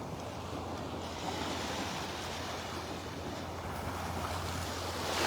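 Gulf surf washing onto the beach in a steady rush, with a wave swelling louder near the end.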